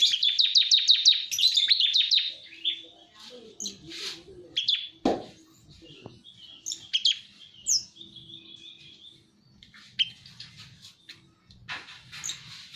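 A prinia (ciblek) singing: a fast trill of about ten high notes a second for the first two seconds, then scattered short chirps and calls. A single sharp knock about five seconds in.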